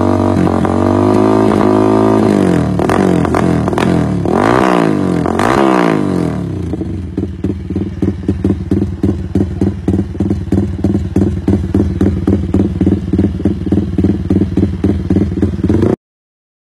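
Motorcycle fitted with an aftermarket racing exhaust, revved several times with the pitch rising and falling, then settling into a lumpy, pulsing idle. It cuts off abruptly near the end.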